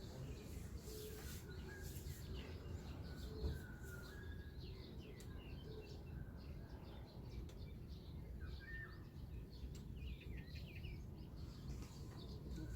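Small birds chirping, many short scattered calls, over a steady low outdoor rumble.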